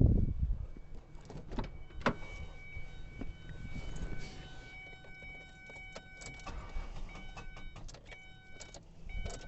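Repeated clicks and an on-off electronic warning chime from a 2003 Ford Escape as the key is turned. The engine does not start because the battery is dead.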